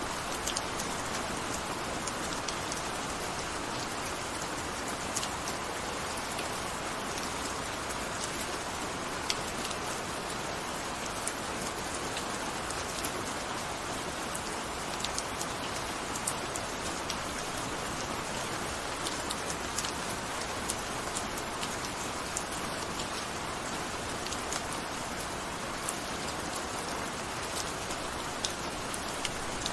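Gentle rain falling steadily, a continuous hiss with scattered sharp drops striking a surface.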